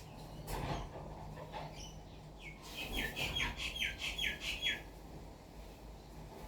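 Wild birds calling: a few short harsh calls, then a quick run of about ten short falling notes, about five a second, in the middle of the stretch.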